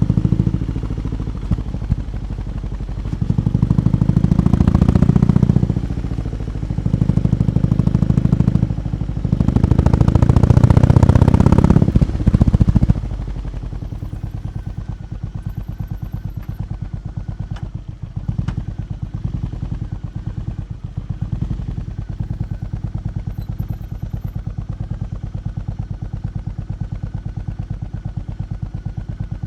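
BMW R18 B's 1,802 cc boxer twin through its exhaust, revved in three surges in the first half, then dropping back to a steady idle for the rest.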